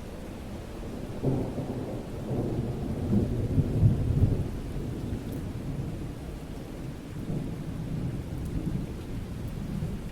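Steady rain with a low rumble of thunder that starts suddenly about a second in, swells to its loudest around four seconds and dies away, with a weaker rumble near the end.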